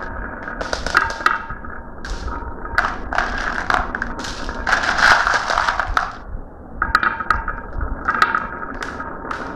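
Marbles rolling and clattering down a marble run track: repeated bursts of rapid clicks and rattles, with a longer, denser rolling stretch about five seconds in.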